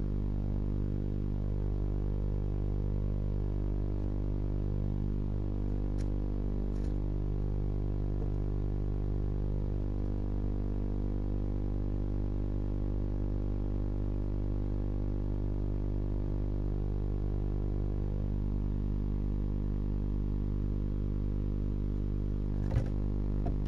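Steady low electrical hum made of many fixed tones, with two faint ticks about a quarter of the way in and a light knock near the end.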